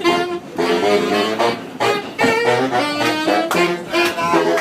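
Saxophone playing a fast jazz line of short, quickly changing notes, with backing from other instruments.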